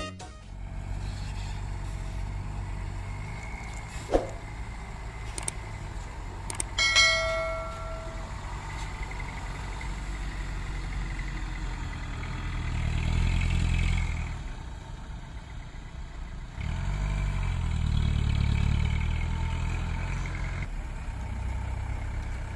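Dump truck engine running with a low, steady rumble that rises twice as it is revved. A brief pitched tone sounds about seven seconds in.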